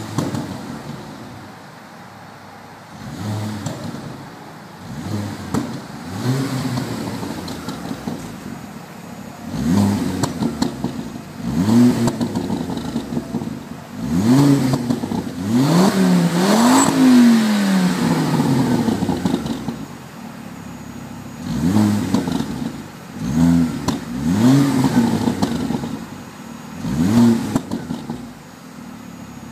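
A car engine revved through its exhaust again and again in short blips, the pitch rising and falling each time, with a longer double rev about halfway through.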